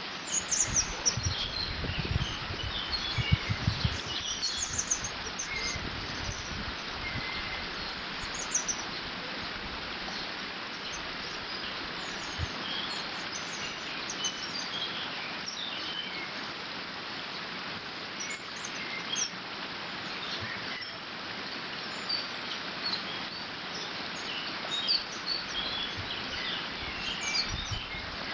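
Water rushing steadily through a beaver dam, with scattered songbird chirps and short songs above it throughout. A few low thumps come in the first few seconds.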